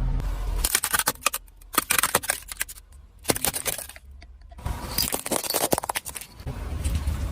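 Brittle objects cracking and crunching under a car tyre in several bursts of sharp snaps, with quieter gaps between them. A low car rumble runs at the start and comes back near the end.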